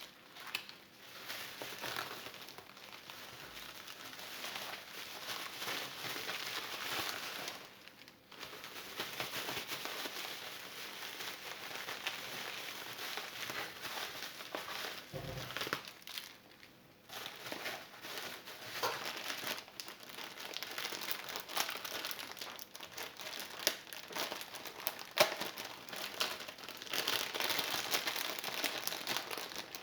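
Continuous crinkling and crackling, with many small scattered clicks and two brief pauses.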